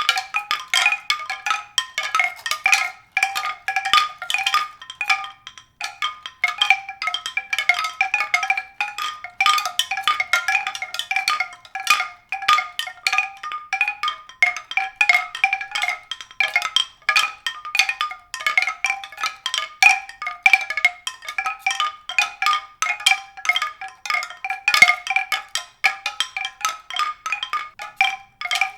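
Continuous, rapid and irregular strikes on tuned percussion of the mallet kind, a few recurring notes each ringing briefly.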